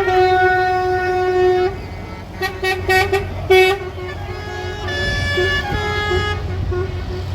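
Truck horns sounding over the low rumble of passing lorry engines: one long blast, then a run of short toots, then another horn at a different pitch.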